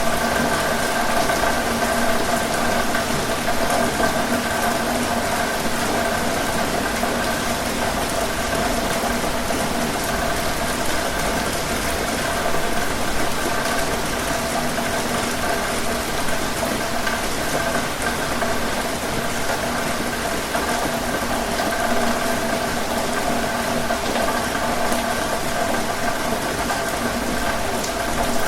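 Heavy rain falling steadily on a tin roof: a dense, even hiss with a few faint steady tones beneath it.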